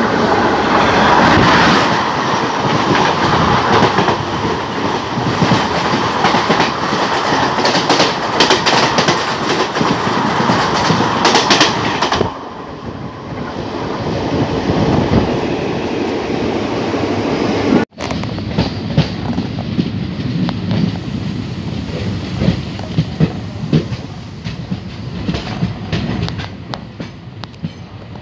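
Passenger train running at speed, heard from an open doorway, as a train passes close by on the adjacent track. Loud rushing and rattling fills the first twelve seconds and drops away suddenly. Then comes the quieter clickety-clack of wheels over rail joints, broken by a very brief cutout a little past halfway.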